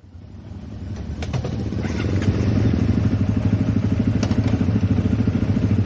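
Motorcycle engine running with a steady, rapid exhaust pulse. It grows louder over the first two seconds or so, then holds even, with a few light clicks.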